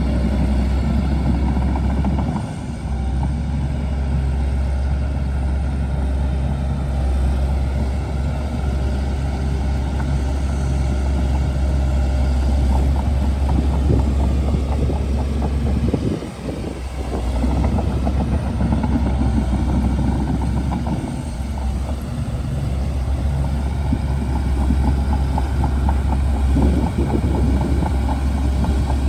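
Shantui DH17C2 bulldozer's diesel engine running under load, a steady low drone that dips briefly three times, about two, sixteen and twenty-one seconds in.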